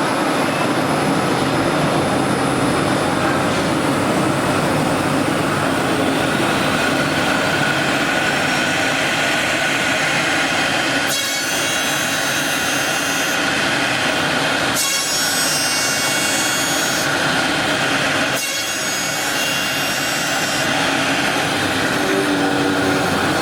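CNC oscillating knife cutting machine running, its vibrating blade cutting foam sponge with a steady rasping buzz. In the second half a higher-pitched whine comes in three times for a couple of seconds each.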